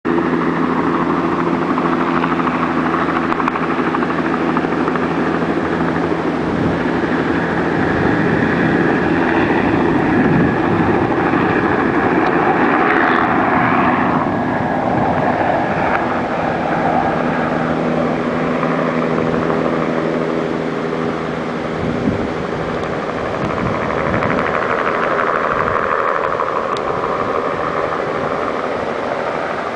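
Helicopter flying close by, its rotor and engine giving a loud, continuous thrum with a steady hum of pitched tones. The sound swells and changes in the middle, then settles back.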